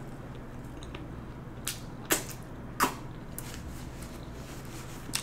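Close-miked chewing of a mouthful of burger, with a few sharp wet mouth clicks about two and three seconds in.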